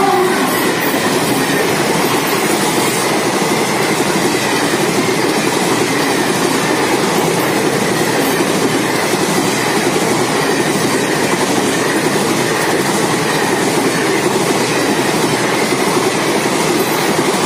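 Passenger train coaches passing at speed behind an electric locomotive, a loud steady rail noise that does not let up. The locomotive's horn dies away in the first moment.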